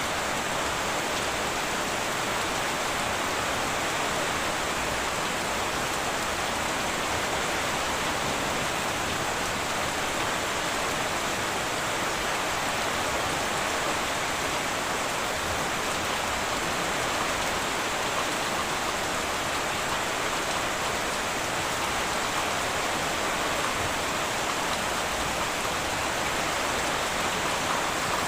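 Heavy rain falling steadily on a tin roof, a dense, even hiss with no thunder.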